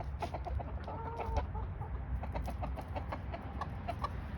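Backyard hens clucking, with one short pitched call about a second in and scattered quick ticks.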